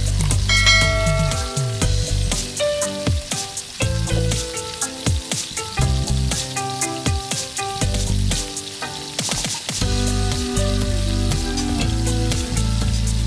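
Chicken curry sizzling and frying in a pan while it is stirred, with sharp crackles throughout.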